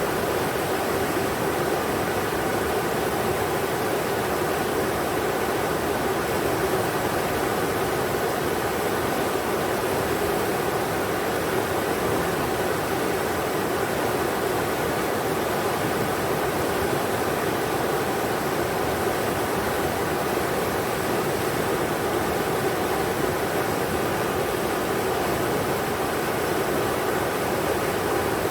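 Englishman River rushing over rocks: a steady, even roar of flowing water.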